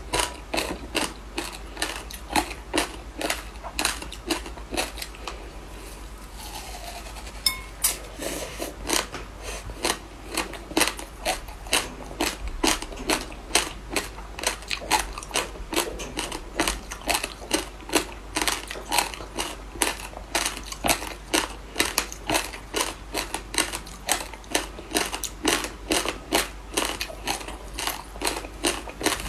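Frozen passion fruit ice being bitten and chewed: crunch after crunch, a few a second, with a short lull of about two seconds early on before the crunching picks up again.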